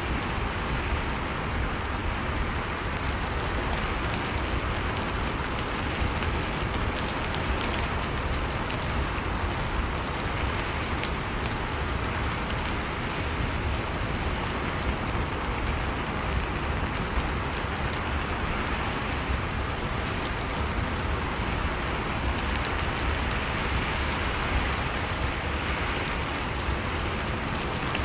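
Steady rain falling, a dense even hiss of drops with faint individual drop ticks and a low rumble underneath.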